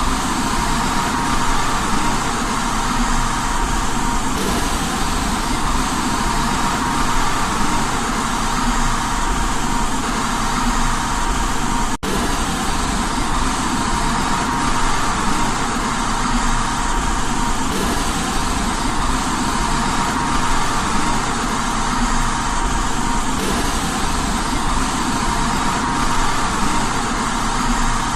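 Steady white noise for baby sleep, an even hiss with a faint steady tone in it. There is a split-second dropout about twelve seconds in.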